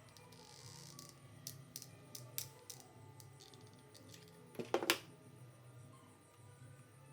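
Small, sharp clicks and taps of hard parts being handled and fitted together: a few single clicks, then a louder quick cluster of clicks about two thirds of the way in, over a low steady hum.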